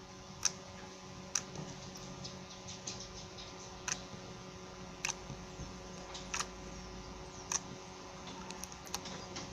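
Blue slime being squeezed and poked by hand, giving off sharp little clicks and pops about once a second, with softer ticks between.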